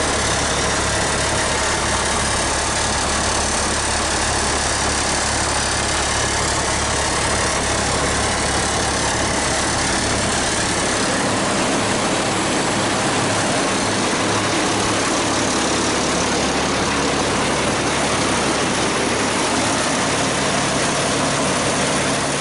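A heavy truck's engine running steadily at idle. Its low hum changes about halfway through.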